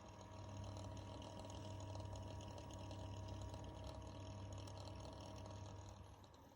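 Corsair H115i RGB Pro XT liquid cooler's pump running with a steady hum and a crackling rattle over it, the rattling noise of a brand-new unit. It swells in at the start and dies down near the end.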